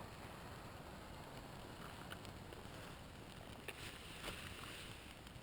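A small campfire of damp wood catching, with a low steady rush and a few scattered crackles and pops that come more often about four seconds in.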